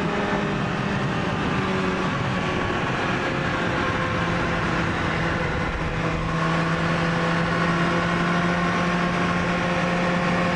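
Honda CBR sport bike engine running at steady revs in third gear, heard over heavy wind rush on the helmet microphone. The engine note steps slightly lower about six seconds in and then holds.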